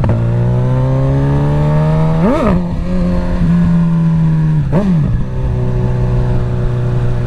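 Suzuki GSX-S1000's inline-four engine through a full Dominator exhaust accelerating hard, its pitch rising as it pulls, with two quick gear changes about two and a half and five seconds in. Heard from a microphone inside the rider's helmet.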